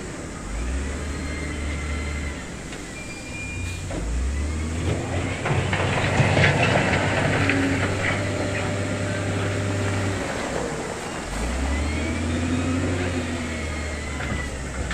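Diesel engine of heavy earthmoving equipment working, its deep note rising and falling with load. A louder, rougher stretch with clatter about five to eight seconds in.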